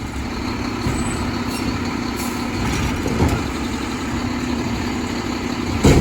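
Garbage truck engine running steadily with a low hum, and a short knock near the end.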